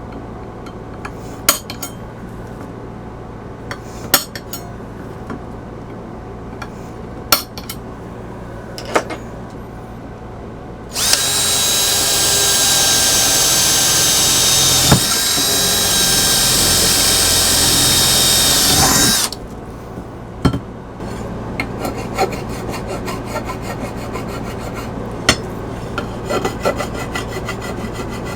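Electric drill running steadily with a whine for about eight seconds, drilling screw holes through a 3/4-inch aluminium square tube. Before it come scattered clinks and knocks of tools being handled, and after it a fine, rapid scraping.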